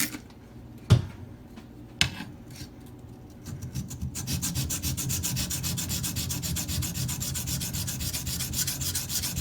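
Steel knife blade ground on a coarse Shapton Pro whetstone to reprofile a chisel-ground tanto edge. There are two sharp knocks about one and two seconds in and a few scattered strokes. From about four seconds on comes a steady run of rapid, even back-and-forth scraping strokes.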